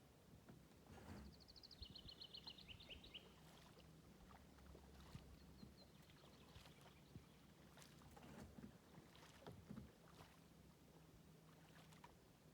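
Faint kayak paddle strokes and splashes in the water. About a second in, a songbird sings a quick trill that steps down in pitch, with a few short high notes a little later.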